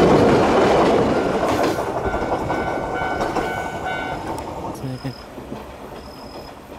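Iga Railway electric train passing close by and pulling away, the wheel-on-rail noise fading steadily. A steady high tone sounds for a few seconds in the middle.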